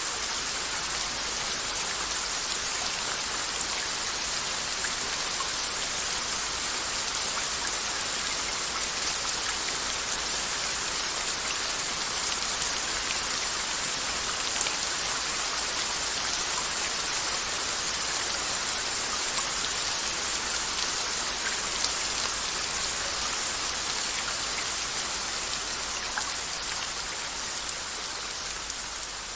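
Steady rain falling on a surface: an even hiss with scattered sharper drop ticks, easing slightly near the end.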